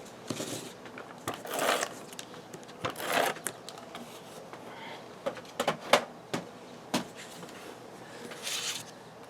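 Paper and cardstock being handled on a tabletop: scattered light taps and clicks with a few short rustles as a taped piece of pattern paper is pressed onto a base card.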